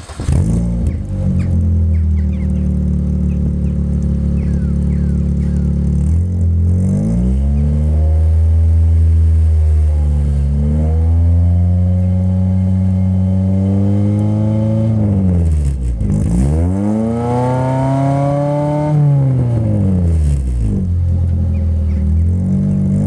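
Car engine running through a split dual exhaust: it idles steadily, is revved up and let fall back three times, highest on the third, then returns to idle.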